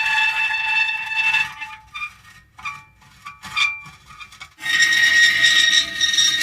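Metal creaking in long, drawn-out pitched squeals. A sustained creak fades out about a second and a half in, a few short creaks follow, and a loud sustained creak starts abruptly about four and a half seconds in.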